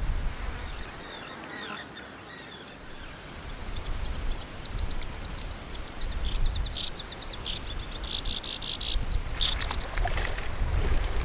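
A bird singing a rapid, evenly repeated series of short high notes that starts about four seconds in and runs for about five seconds, over gusts of wind rumbling on the microphone.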